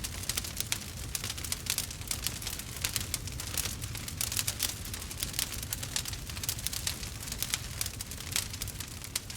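Burning wood fire crackling and popping, with many small irregular snaps over a low steady rumble of the flames.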